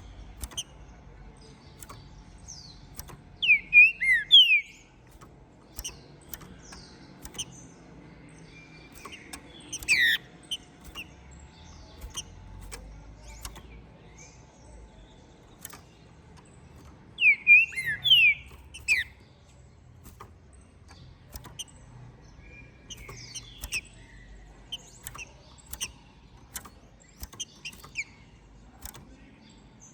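Green-winged saltator (trinca-ferro) singing loud phrases of short, steeply sliding whistled notes, three louder bursts with softer notes in between, over frequent faint clicks.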